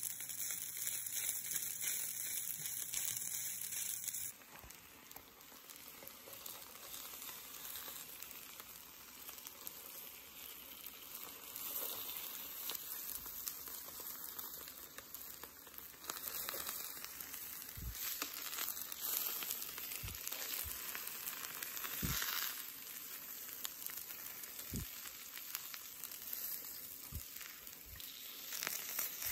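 Rice sizzling in hot sausage fat as a wooden spatula stirs it in a nonstick pan. After about four seconds it gives way to eggs frying in oil on a flat griddle: a steady, quieter sizzle with a few brief knocks.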